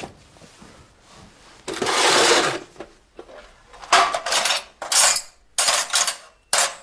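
Clatter of hard objects being handled and knocked together in several separate bursts, the longest about two seconds in.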